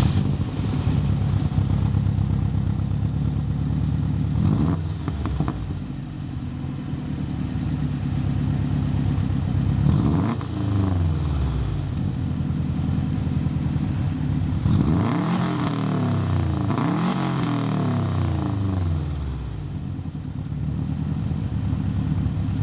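2004 Subaru WRX STi's turbocharged 2.5-litre flat-four idling through a B&B cat-back exhaust with a catless downpipe, blipped several times: once about four seconds in, again about halfway, then two quick revs close together about two-thirds through, each rising and falling back to idle.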